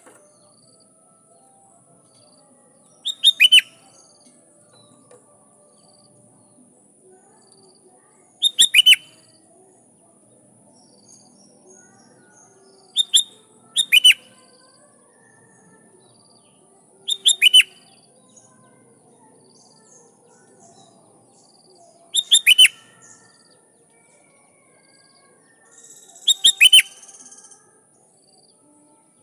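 Sooty-headed bulbul calling in short bursts of quick descending notes, seven phrases spaced about every four to five seconds. A faint steady high-pitched hum runs underneath.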